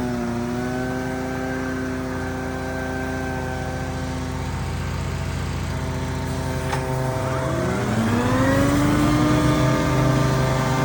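Gas leaf blower engine running steadily, then opened up about seven seconds in, its pitch rising to a higher steady speed.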